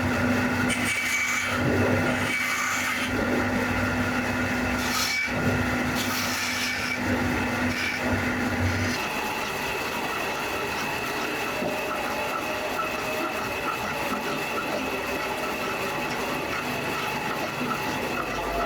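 A machine running steadily, with a constant high whine over a rasping noise; a lower hum drops out about nine seconds in.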